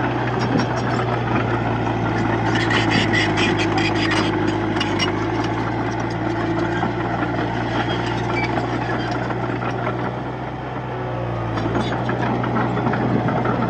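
Komatsu D31P bulldozer's diesel engine running steadily under work, with a run of rapid rattling clicks from about two and a half to five seconds in.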